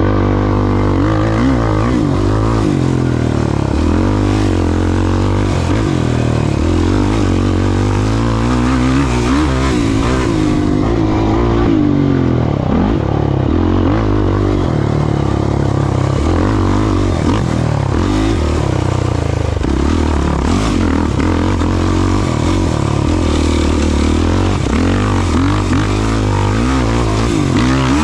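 Off-road racing vehicle engine running hard, its revs rising and falling over and over as it is ridden through the course.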